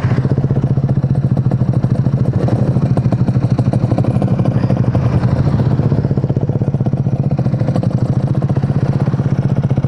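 Motorcycle engine running steadily while ridden at low road speed, with a fast, even pulse.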